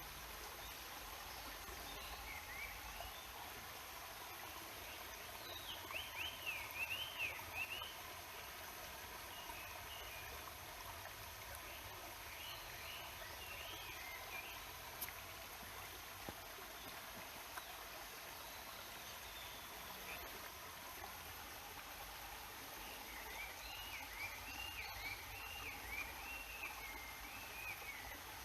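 Stream water running steadily and faintly, with a small bird singing quick, rising-and-falling warbled phrases three times: about six seconds in, around twelve seconds in, and again near the end.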